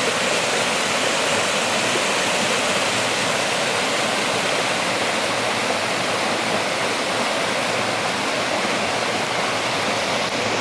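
Rain pouring down in a steady, even hiss.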